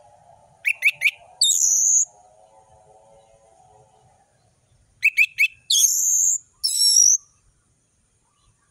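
Orange-headed thrush (anis merah) singing in loud, high phrases: twice, about four seconds apart, three quick sharp notes followed by a high whistled note, the second phrase ending with an extra falling whistle.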